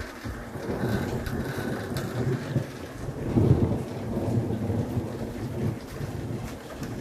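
Thunder rumbling over steady rain, the rumble swelling to its loudest about three and a half seconds in.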